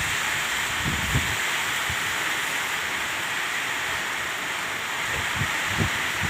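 Steady rushing noise of cyclone rain and floodwater, with a few low thuds of wind buffeting the microphone.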